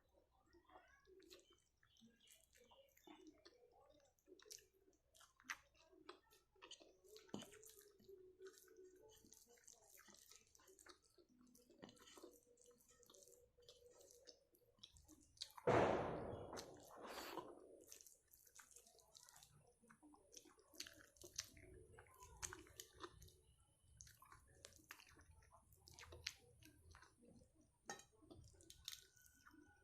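A person chewing food close to the microphone, with many small, faint wet clicks from the mouth. About halfway through there is a louder noisy burst lasting a couple of seconds.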